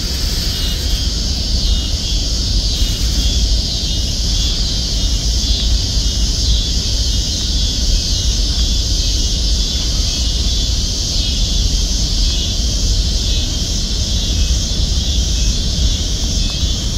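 Covered hopper cars of a freight train rolling past: a steady rumble of steel wheels on the rails, with a hiss of higher wheel and rail noise over it.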